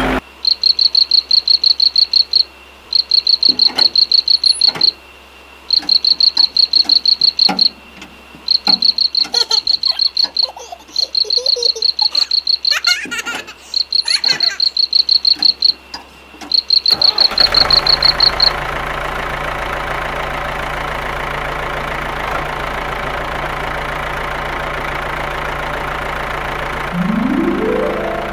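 High-pitched chirping trills, each about two seconds long with short gaps, over a few plastic handling clicks. About seventeen seconds in, a toy tractor's electronic engine sound takes over, running steadily and rising in pitch near the end.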